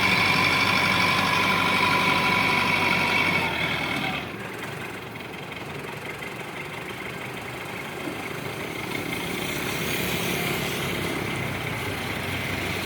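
Diesel engine running loud with a steady high whine. About four seconds in, the whine stops and the engine drops to a quieter idle, which slowly picks up again.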